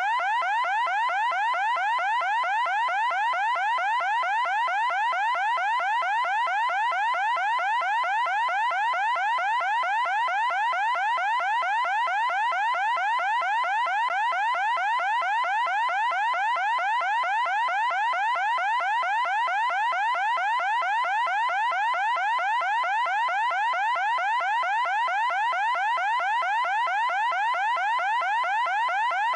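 Loud electronic alarm tone: a short rising sweep repeated several times a second, unbroken and unchanging.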